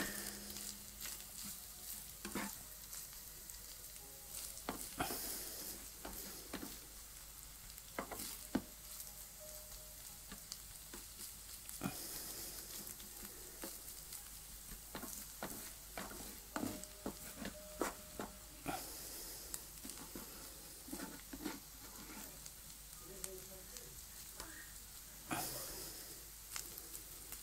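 Minced chicken frying in oil in a frying pan, a faint steady sizzle, with the scrapes and taps of a spatula stirring it now and then.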